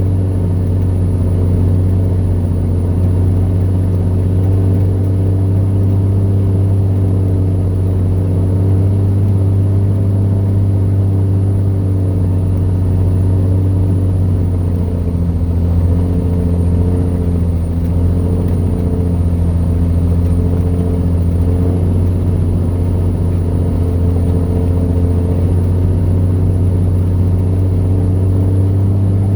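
Vehicle engine running steadily under way, heard from inside the cab as a low drone; the engine note shifts slightly lower about halfway through.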